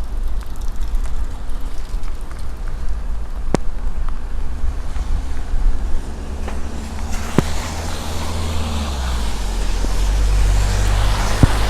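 Road traffic: a car passing on the road, its engine and tyre noise building over the last few seconds, over a steady low rumble, with a few sharp clicks.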